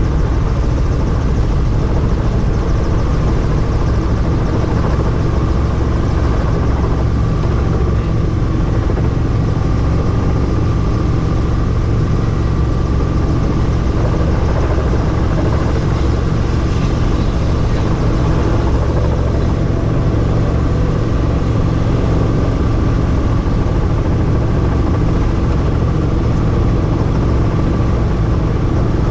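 Helicopter in steady flight heard from on board: the rotor and turbine engine's constant low drone mixed with wind rushing through the open doorway, unchanging throughout.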